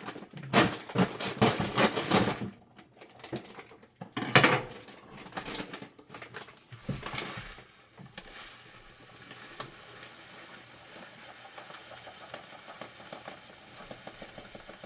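Knife and kitchen utensils clattering and knocking against dishes: a quick run of clicks in the first two seconds, a louder clatter about four seconds in, then scattered clicks that die away into a quiet room background.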